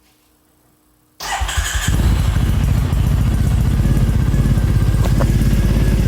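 Triumph Bonneville T100 parallel-twin engine, fitted with aftermarket slip-on silencers, started on the electric starter about a second in; it cranks briefly, catches and settles into a steady idle.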